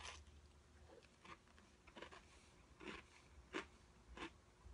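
Someone chewing a bite of Oreo sandwich cookie: faint, short crunches about every two-thirds of a second.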